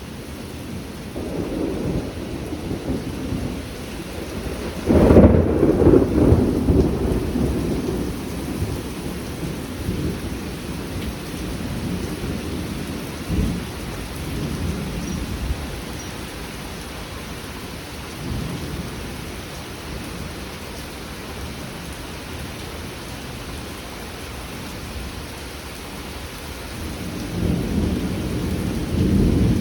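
Heavy rain falling steadily through a thunderstorm, with a loud, sudden thunderclap about five seconds in that rumbles on for several seconds, shorter rumbles later, and another rolling peal building near the end.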